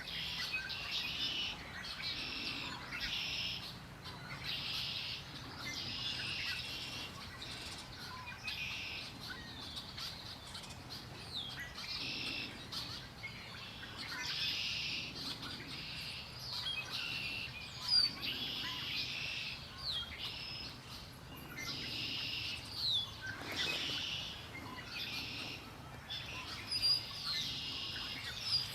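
Songbirds singing, one repeating a short, dense, buzzy phrase every second or two, with scattered higher chirps from other birds over a faint low steady rumble.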